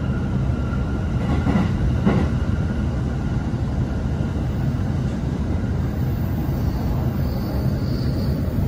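E531-series electric commuter train running, heard from inside the passenger car: a steady low rumble of wheels on rail, with a couple of faint clacks about two seconds in.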